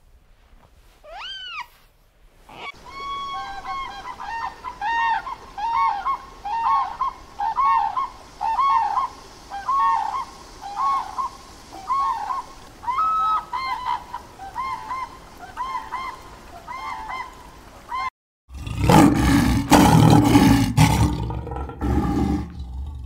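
A single rising squeal from an otter, then grey crowned cranes giving a long run of repeated honking calls, one to two a second. After a short break near the end come about four seconds of loud, low growling and scuffling from lion cubs play-fighting.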